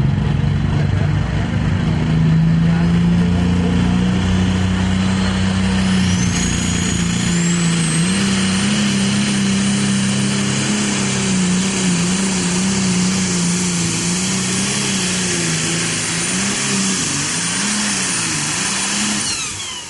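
8,000 lb diesel super stock pulling tractor under full throttle on a pull, its turbocharged diesel engine running hard with a high whistle that climbs in pitch about six seconds in and then holds. Near the end the engine note wavers and then drops off sharply as the driver comes out of the throttle.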